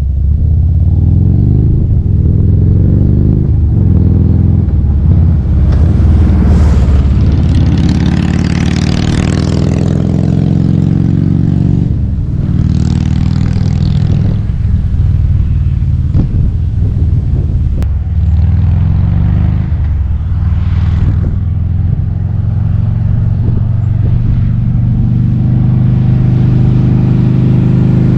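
A 2009 Harley-Davidson Road Glide's V-twin engine under way, revving up in rising pulls and dropping back several times as it shifts through the gears.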